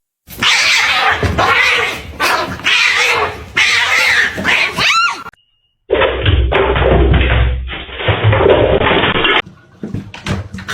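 Cat vocal sounds, loud and noisy, ending in a short bending meow-like call about five seconds in. After a sudden half-second of silence, a second, more muffled stretch of cat sounds follows.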